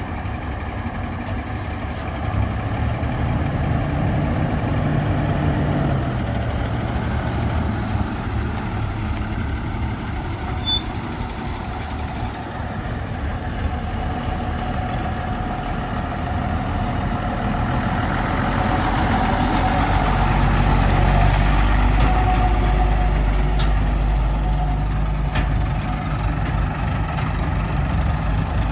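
Heavy diesel engine running steadily; its speed drops about six seconds in, then picks up and gets louder around twenty seconds in.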